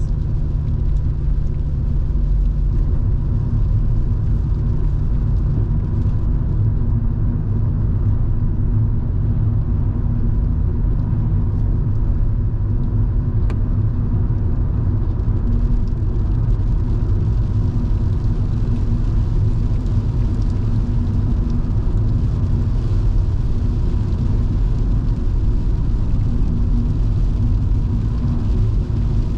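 Steady low engine and road rumble of a Volvo V70 2.5T's turbocharged five-cylinder at cruising speed, heard from inside the cabin, with a faint steady hum and light hiss over it.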